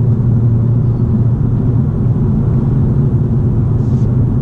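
BMW M235i's turbocharged inline-six running through an aftermarket ARMYTRIX exhaust, holding a steady drone at constant revs while cruising, heard from inside the cabin with road noise beneath it.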